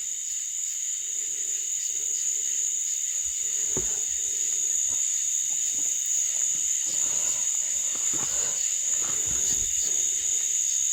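Night insect chorus: a steady high-pitched drone of crickets. Under it there is irregular low rustling and knocking, with one thump about four seconds in.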